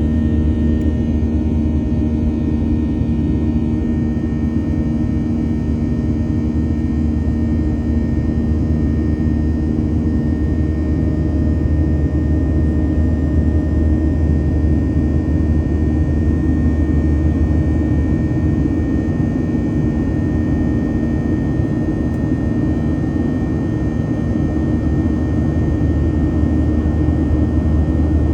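Boeing jet airliner's engines running at takeoff power, a steady low rumble with a constant hum.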